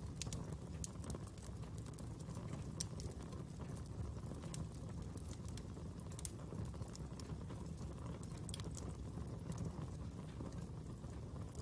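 Fire burning, with a steady low rumble and scattered sharp crackles and pops.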